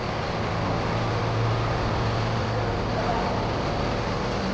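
A machine running steadily with a low hum and an even hiss.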